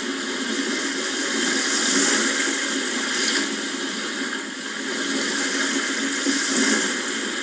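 Sea waves washing ashore: a steady rush of surf that swells and eases every few seconds.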